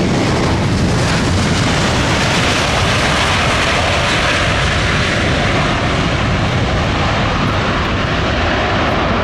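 Airbus A400M Atlas military transport flying its display on its four turboprop engines: a loud, steady rushing engine and propeller noise that swells a little midway, with a faint held whine.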